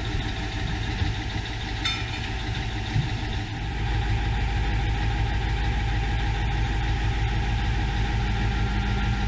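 An engine idling with a steady low pulse, getting louder about four seconds in.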